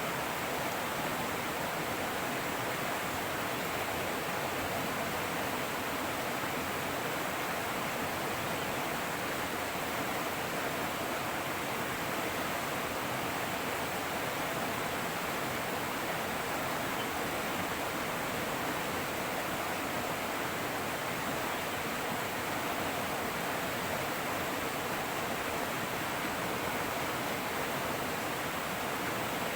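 Fast-flowing river running as a steady, even rush of water.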